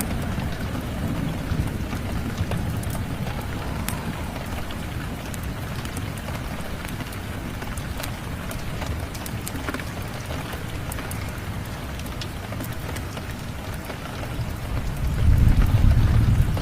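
Steady rain with a low rumble underneath, and sharp crackles and pops from a wood fire scattered throughout. The low rumble swells and grows louder about a second and a half before the end.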